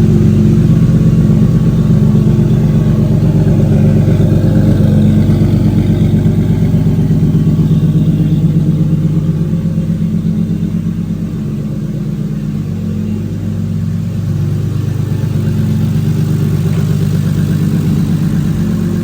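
Turbocharged drift car's engine running steadily at low speed with an even exhaust pulse. It eases off a little about two-thirds of the way through, then picks back up.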